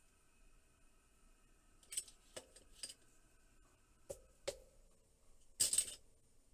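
A few sharp clicks and light clinks of small hard parts and tools being handled on a bench, then a short scraping rattle near the end, the loudest sound.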